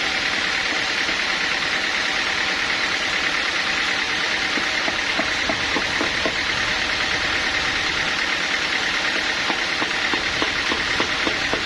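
Sawmill machinery running steadily, an engine-like drone with a steady high hum and some light knocks scattered through the middle.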